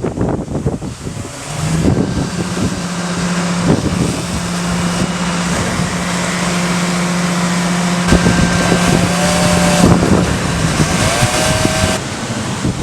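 Strong tropical-storm wind blowing hard across the microphone, with a steady low hum underneath for most of the stretch and a couple of brief higher tones near the end.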